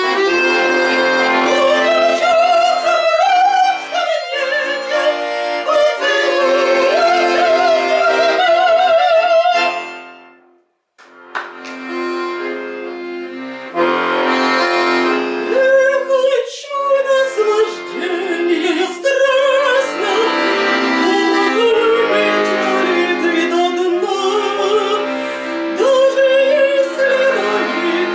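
Accordion music: a wavering melody line over sustained chords. It breaks off for about a second about ten seconds in, then starts again.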